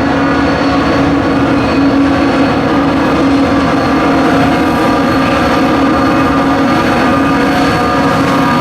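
Diesel freight locomotives running steadily under load: a loud, even engine drone with a faint high whine above it.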